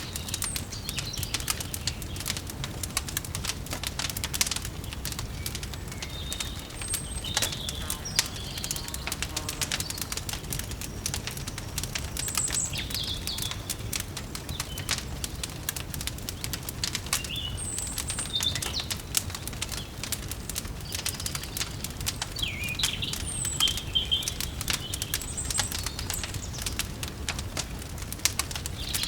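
Wood fire crackling with frequent small pops, with birds chirping now and then over a low steady background.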